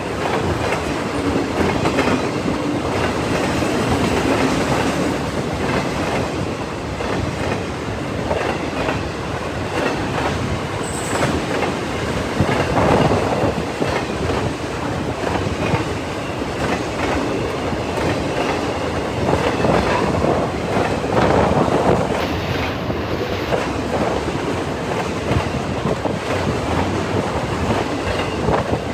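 CN freight train cars rolling past at speed, their wheels clacking steadily over the rail joints.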